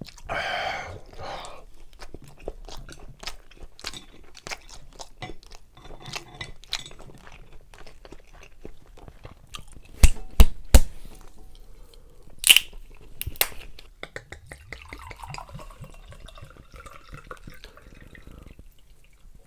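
Close-miked chewing and crunching of food, with many small wet clicks. About halfway through come three loud sharp knocks close together, then a single clink with a short ring a couple of seconds later.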